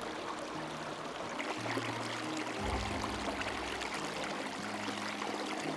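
Small forest stream flowing, a steady trickling rush of water, with soft background music of low held notes underneath.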